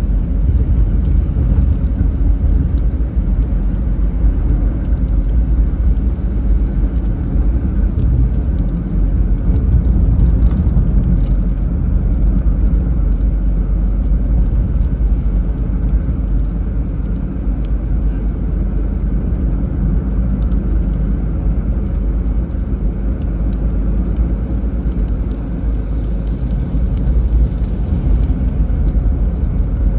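Car driving along a road, a steady low rumble of engine and tyres, with faint scattered ticks over it.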